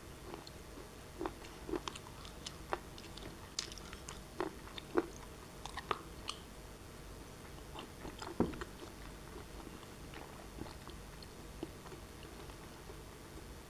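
Black shale pieces being bitten and chewed, with irregular sharp crunches. The crunches come often at first, the loudest a little past the middle, and thin out near the end.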